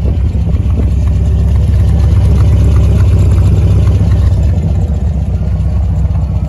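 1967 MGB GT's 1798 cc B-series four-cylinder engine running at idle shortly after a cold start, heard close to its twin exhaust tailpipes. The steady exhaust note grows louder in the middle as the tailpipes come near.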